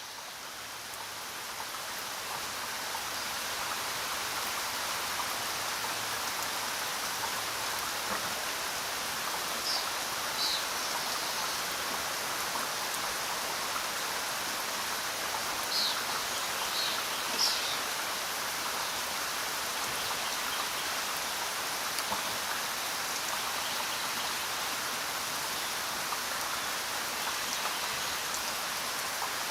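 Steady rainfall, an even hiss of drops, fading in over the first few seconds and then holding level. A few short high chirps come and go around the middle.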